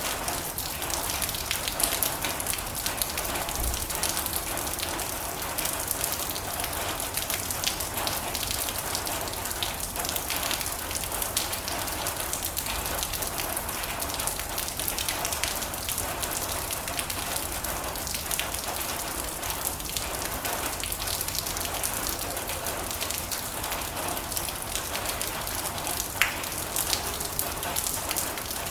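Steady heavy rain drumming on a metal roof: a dense, even patter of many drops.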